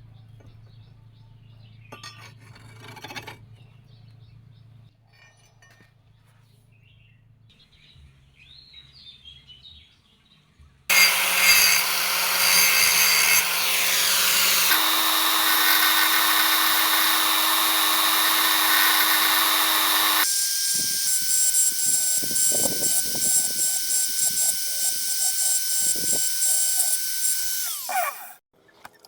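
Low hum with faint handling noises, then an electric power tool starts suddenly and works against steel with a steady high whine. Near the end it is switched off and its whine falls away quickly as the motor spins down.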